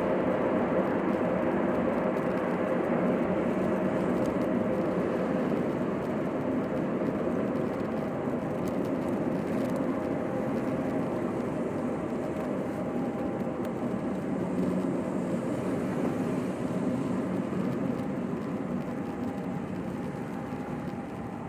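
Steady road and engine noise inside a moving car, a dense even rumble without speech that eases a little toward the end.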